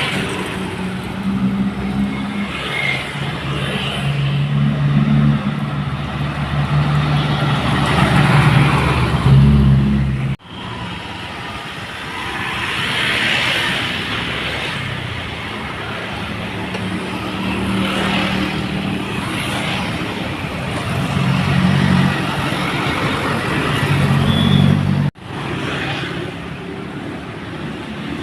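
Loaded dump trucks' engines running under load as trucks pass, the sound swelling and fading several times. The sound cuts off abruptly about ten seconds in and again near the end.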